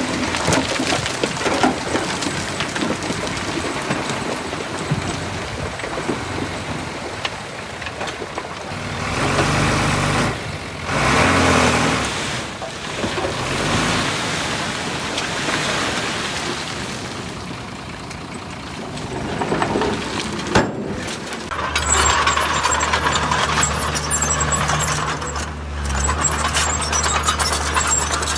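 Heavy diesel earthmoving machinery working, with hissing mechanical noise that swells and eases, and louder surges about a third of the way in. From about three-quarters through, a steady low engine drone takes over.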